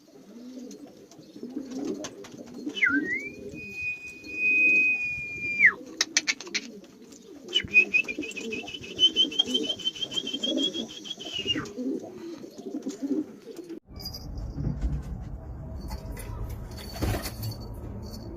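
Domestic pigeons cooing steadily. Two long, steady high whistles sound over the cooing, one about three seconds in and one about eight seconds in. About fourteen seconds in, the cooing gives way to a low rumbling noise with a few clicks.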